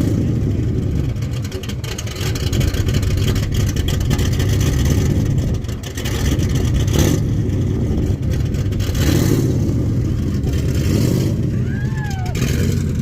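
Car engine revving hard and held at high revs during a burnout, loud and continuous, with a crackling noise over it.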